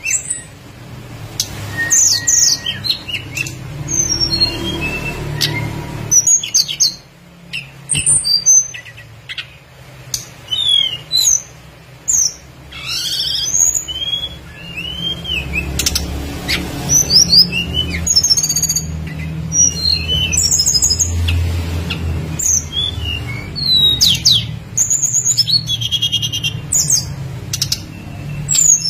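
Tledekan gunung songbird singing in rapid, varied high-pitched chirps, sweeps and trills, over a low steady hum.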